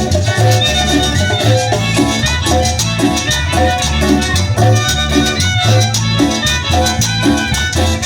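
Live chanchona band playing an instrumental passage of a cumbia with a steady beat, a strong bass line and a violin carrying the melody.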